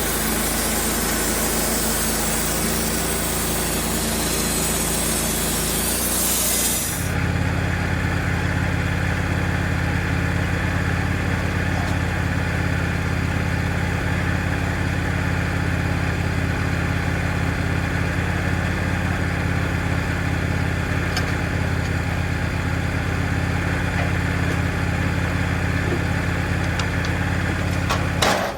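Band sawmill engine running steadily, with a loud hiss of the blade cutting through the log that stops abruptly about seven seconds in. The engine then runs on at a fuller, lower note. A brief sharp clatter comes near the end.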